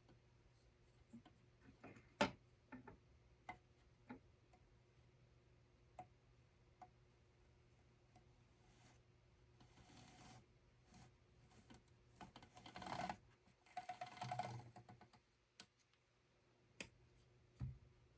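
Quiet scattered light clicks and taps, one sharper click about two seconds in, with two short spells of rustling and scraping in the second half.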